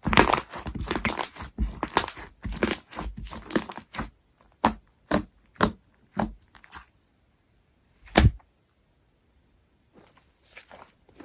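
Slime being squished and stretched by hand, with dense sticky crackling and clicking that thins out after about four seconds to a few single sharp pops.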